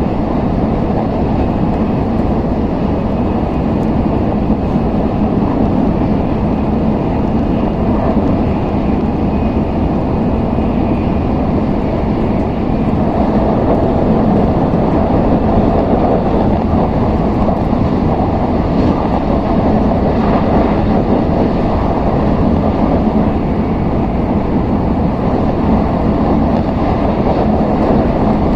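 Steady running noise of an N700S Shinkansen heard from inside the passenger cabin: an even, unbroken rumble with no distinct knocks or changes.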